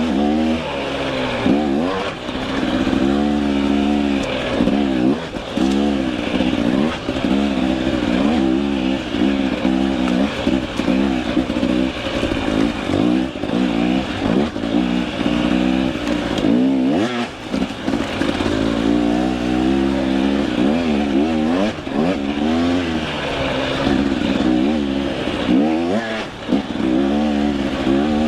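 Two-stroke KTM 300 EXC enduro dirt bike engine running at speed, its pitch rising and falling over and over with the throttle.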